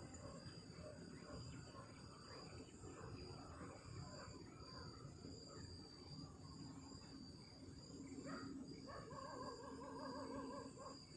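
Night insects trilling steadily in a thin, high, continuous tone, faint against a low background hiss.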